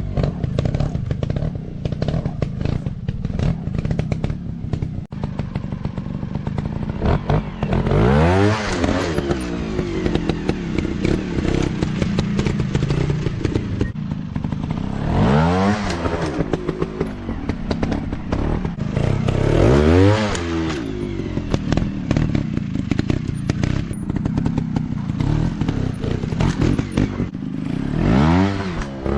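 Dirt bike engines running, revved up and falling back in about four sweeps. Knocks and clatter run through it.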